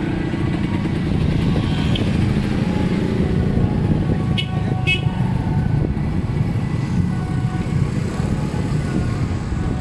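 Motor vehicle engines running with a steady low rumble, with two short high toots about four and a half seconds in.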